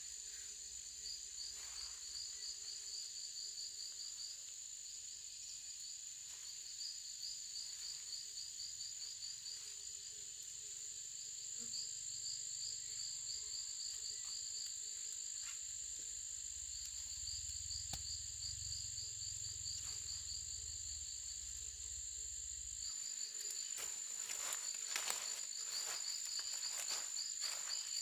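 Insects chirping: a steady high buzz with repeated pulsing trills that come in bursts a few seconds long. There are a few sharp clicks near the end.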